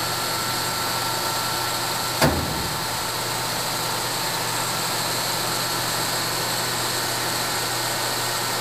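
Steady electric machinery hum in a machine shop, with a single knock about two seconds in.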